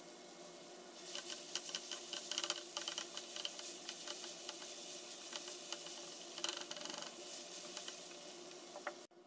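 Chopped onions and tomatoes sizzling in a non-stick frying pan, stirred and scraped with a silicone spatula, with irregular crackles throughout. The sound stops abruptly near the end.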